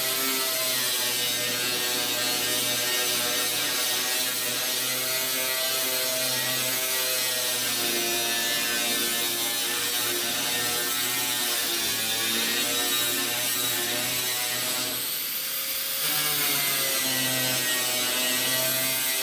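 Power tool spinning a paint-and-rust stripping wheel against metal, a steady whine with a hiss over it whose pitch wavers a little with load. About fifteen seconds in, it dips briefly and then picks up again.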